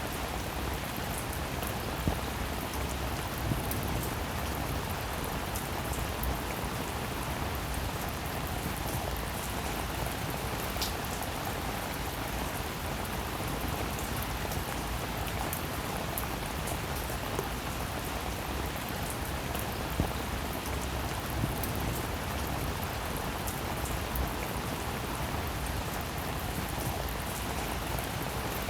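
Steady rainfall, a dense even hiss of drops, with an occasional louder single drop hit standing out.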